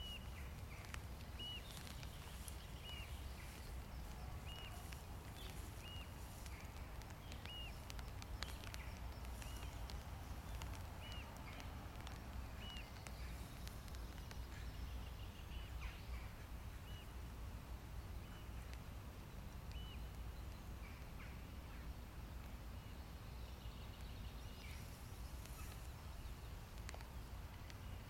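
A bird repeating a short, high, arched chirp about once a second, thinning out after about two-thirds of the way through, over a steady low outdoor rumble.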